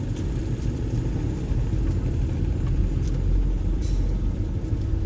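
1979 Toyota Corolla KE30's 1.2-litre four-cylinder engine running steadily while the car is driven, heard from inside the cabin as a low rumble. With its new conrod bearings and no grinding, it runs much quieter.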